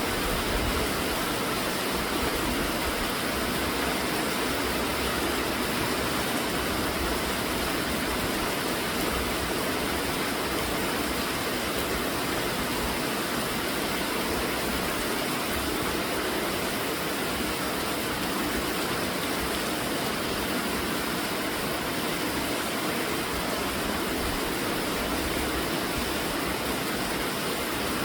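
Steady heavy rainfall, an even rushing hiss.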